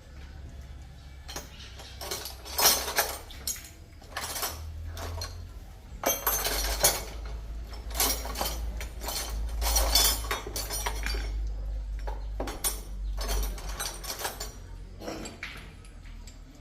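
Repeated clinking and knocking of hard objects, sharp strikes with a short ring, some close together, over a steady low hum.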